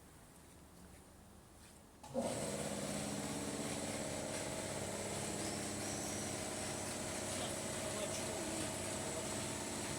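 An engine comes in abruptly about two seconds in and then runs steadily at an even idle.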